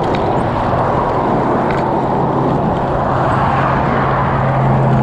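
Wind and road noise on a bike-mounted action camera while riding, with a steady low hum that grows stronger about halfway through.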